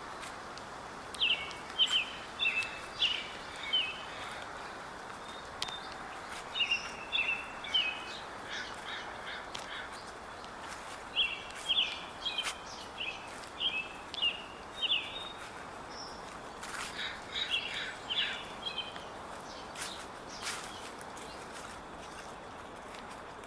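A songbird singing four phrases of quick, high notes, with short pauses between phrases, over a steady outdoor hiss.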